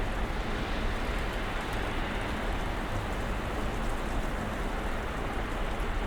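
Snowstorm outside an apartment: a steady, even hiss of falling snow and weather, with a low rumble underneath.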